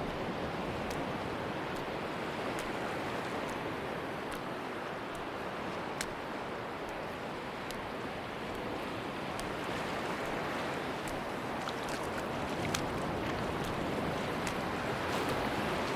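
Sea waves washing steadily on a beach, a continuous surf hiss that swells slightly near the end, with scattered faint clicks.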